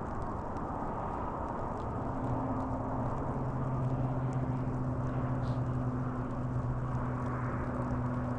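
Steady low rushing noise, with the even drone of a distant engine coming in about two seconds in and holding one low pitch.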